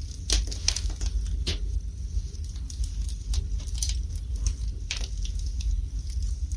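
Wood fire burning in a fireplace: irregular crackles and sharp snaps, bunched at times, over a steady low rumble.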